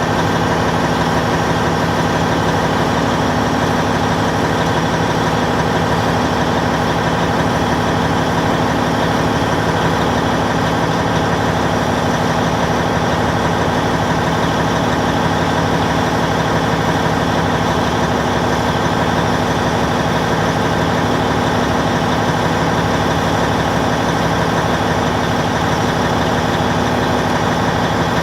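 Heavy bulldozer's diesel engine running steadily at one constant speed, with no revving or changes in load.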